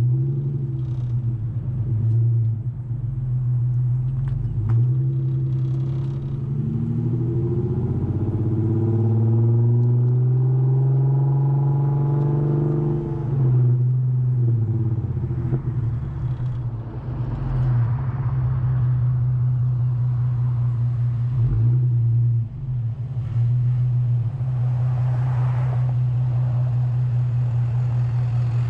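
Infiniti Q50's exhaust with an axle-back muffler delete, the car driving with a steady low drone. About seven seconds in the pitch climbs as it accelerates, then drops suddenly about thirteen seconds in, with smaller swells of throttle later.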